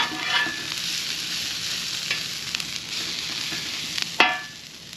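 Red and green peppers and onions sizzling steadily on a Blackstone flat-top griddle as they are stirred with a metal spatula, with a sharp clink of the spatula on the griddle about four seconds in.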